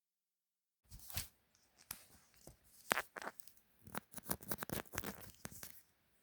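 Crisp crackling and crunching close to the microphone from the tacos being handled, as a rapid run of sharp clicks that starts about a second in and stops near the end.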